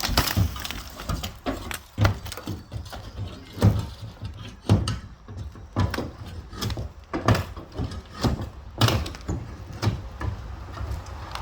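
Wooden shed being torn apart: irregular bangs, knocks and cracks of boards breaking and falling, the loudest strokes about four, five and nine seconds in.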